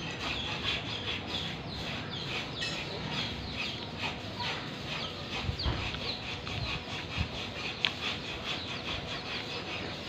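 Birds chirping steadily in a dense stream of short high calls, with a few soft low knocks and one sharp click about eight seconds in.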